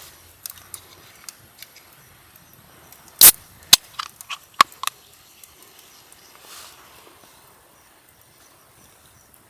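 Dry wood cracking: one loud sharp snap about three seconds in, followed quickly by several smaller snaps, with a few faint ticks before it.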